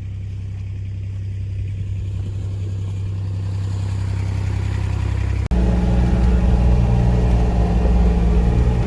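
Truck engine running with a steady low hum that grows gradually louder. A little past halfway through it jumps abruptly to a louder, fuller engine sound.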